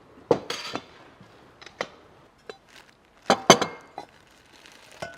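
Dishes and utensils clinking and clattering in a handful of separate knocks, the loudest cluster a little past three seconds in.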